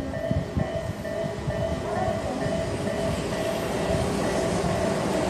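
Tobu 10000 series electric train rolling past a level crossing, its wheels thumping over rail joints and then running in a denser rumble that grows louder toward the end. Through it the crossing's warning bell keeps dinging about twice a second.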